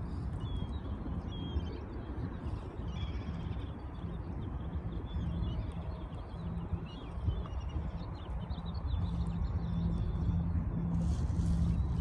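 Small birds chirping in short, scattered calls over a steady low rumble and hum.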